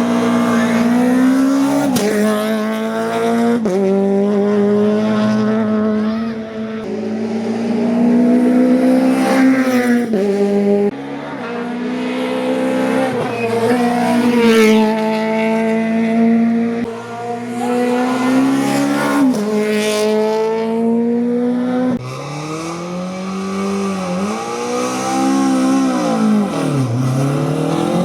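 Race car engine at full throttle, its revs climbing and dropping sharply with each upshift, several shifts in a row. Near the end the revs fall steeply, as for braking into a corner, then climb again.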